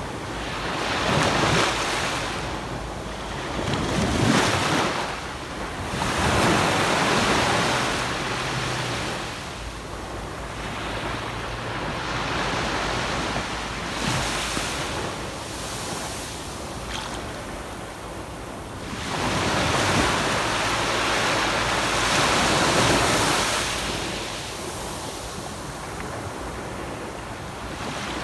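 Sea waves breaking and washing up a sandy beach, the surf swelling and fading every few seconds, with a low rumble of wind on the microphone beneath.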